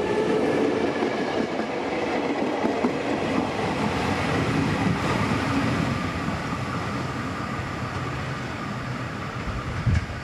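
KRL electric commuter train running past on the track, its wheels clattering over the rails.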